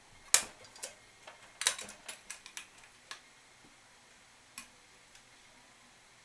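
Irregular sharp clicks and knocks. The loudest comes at the very start, a quick run follows over the next three seconds, and one more comes near the five-second mark. It is a small plastic Angry Bird toy being knocked about by cats at play.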